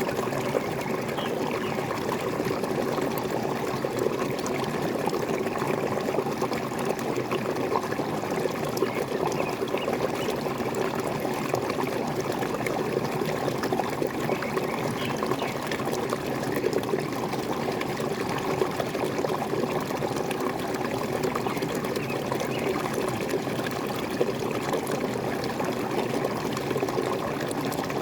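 Steady running water of a waterfall, splashing and trickling without a break.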